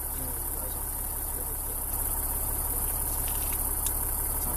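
Land Rover Discovery 4 engine idling steadily, a low even hum.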